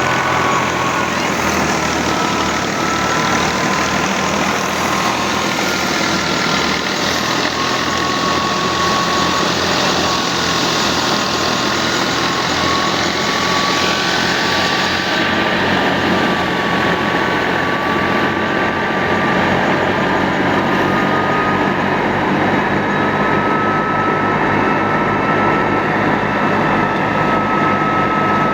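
Al-Ghazi tractor engine running steadily under load, driving a thresher, with a high whine that wavers slightly in pitch over the steady machine noise.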